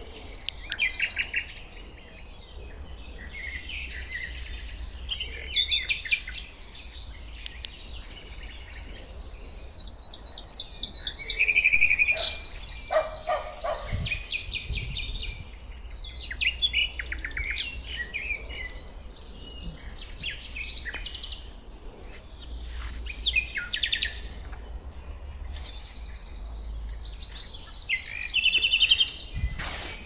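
Several songbirds singing at once: overlapping trills, chirps and a run of repeated high notes, loudest about twelve seconds in and again near the end.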